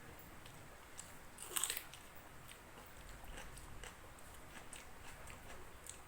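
A person chewing and biting food with small crunches, and a louder crunch about one and a half seconds in.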